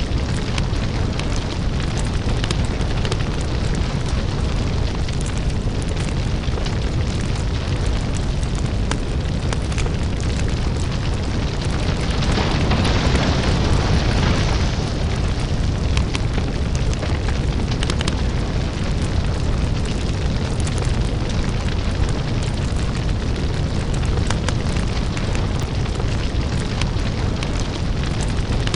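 Crackling lava-fire ambience: a steady deep rumble under dense crackling and popping. A louder hiss swells up about twelve seconds in and fades again a few seconds later.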